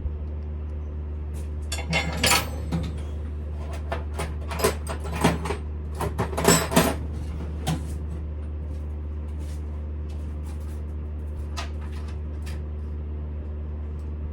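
Small metal objects being handled, clinking and clattering in a cluster of knocks from about two to eight seconds in, with a few more clicks near twelve seconds, over a steady low hum.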